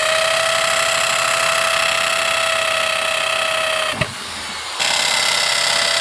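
Electric drill running at a steady high whine, boring pilot holes into the refrigerator's wall. It stops briefly about four seconds in, then runs again.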